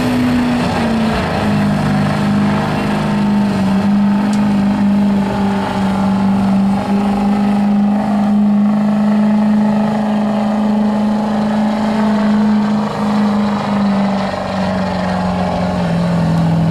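Pulling truck's engine at full throttle dragging a weight-transfer sled down the track, held at nearly steady high revs, the pitch sagging near the end as the load builds.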